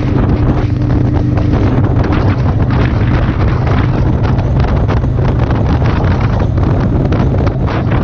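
Heavy wind buffeting the action camera's microphone at riding speed, with a motorcycle engine droning steadily underneath.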